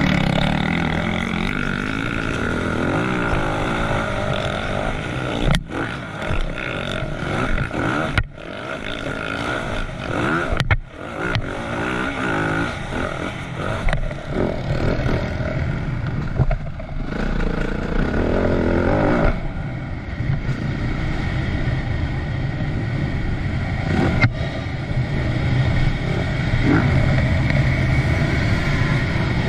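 Yamaha YZ450F four-stroke single-cylinder motocross bike ridden hard around a dirt track, its engine note rising and falling with the throttle. The sound drops out briefly about 8 and 11 seconds in, as the throttle is closed.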